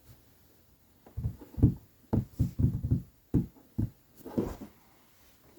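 Handling noise on a work table: a quick run of soft, low thumps and knocks for about three seconds, starting about a second in, as fabric pieces are moved and set down.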